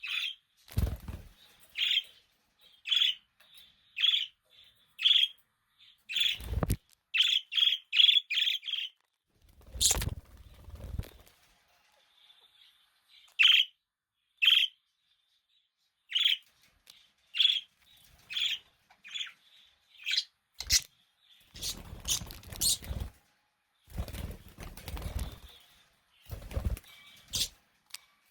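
Budgerigars chirping: short single chirps about once a second, with a quick run of five chirps about eight seconds in. Several brief rustling noises come in between, the longest around ten and twenty-two seconds in.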